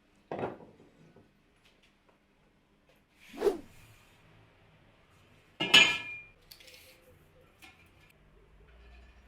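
Workshop handling noises: three separate knocks or clatters about three seconds apart, the last and loudest with a brief clinking ring, then a few faint ticks.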